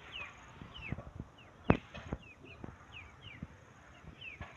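Birds chirping, short descending notes repeated again and again, with a few sharp knocks, the loudest about a second and a half in.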